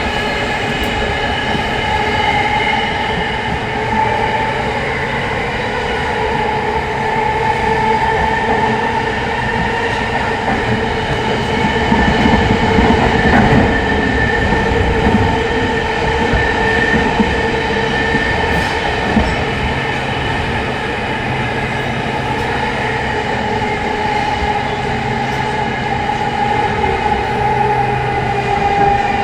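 Inside a JR East E231 series 800-subseries commuter car running through a subway tunnel: steady wheel-and-rail rumble with the constant multi-tone whine of its Mitsubishi IGBT-VVVF traction motors. The rumble swells for a few seconds about halfway through.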